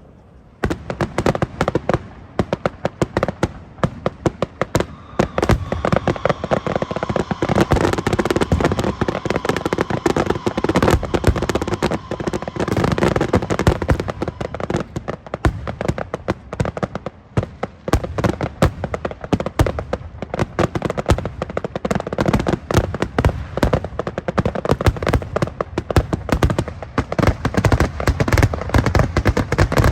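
Fireworks display: a dense, unbroken barrage of bangs and crackling that starts about half a second in.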